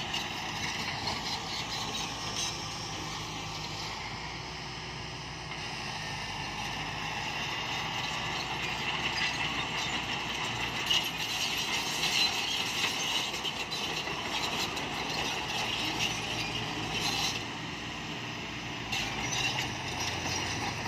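Isuzu FXZ 360 dump truck running while its trailer is being coupled, with mechanical clicking and rattling over the engine.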